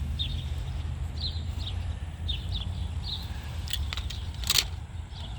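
A small bird chirping repeatedly, short high falling notes a few times a second, over a steady low rumble. A few sharp clicks come near the end, the loudest about four and a half seconds in.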